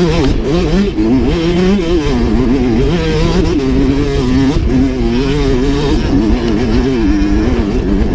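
Dirt bike engine revving unevenly, its pitch rising and falling every second or so as the throttle is worked on a climb.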